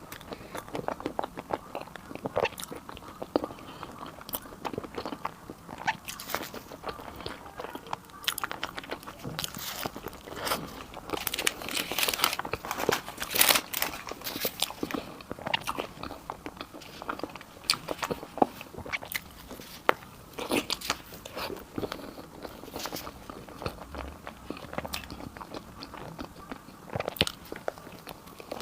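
Close-miked eating: crunchy bites and chewing, a steady run of sharp crunches that is densest about halfway through.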